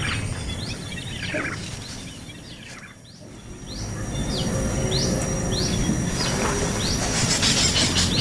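Small bird giving a series of short rising chirps, about two a second, over a steady high whine and background noise. The sound drops low about three seconds in, and the chirping comes back louder after that.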